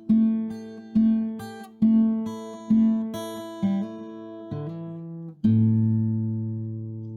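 Background music: acoustic guitar strumming chords about once a second, ending on a final chord that rings out and slowly fades.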